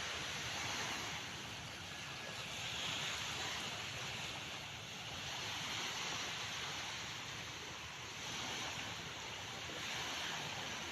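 Calm sea waves washing in: a continuous hiss of surf that swells and eases every few seconds.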